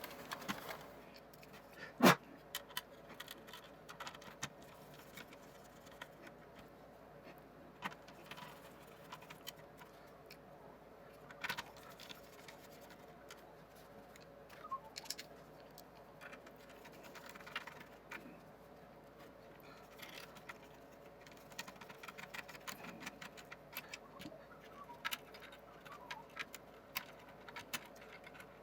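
Scattered small clicks and taps of hands working with tools and parts on an opened electronics box, one sharper click about two seconds in, over a faint steady hum.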